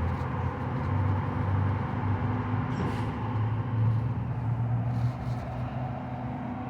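CCC-McNeilus rear-loader garbage truck's engine running steadily, a low, even hum, with a couple of faint clicks about three and five seconds in.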